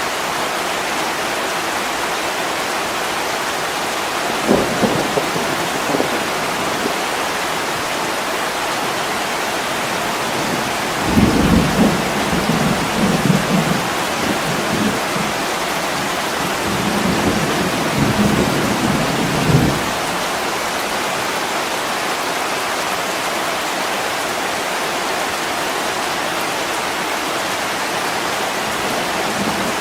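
Heavy rain falling steadily on a window, with low rumbles of thunder briefly about four seconds in and again for several seconds from about eleven to twenty seconds in.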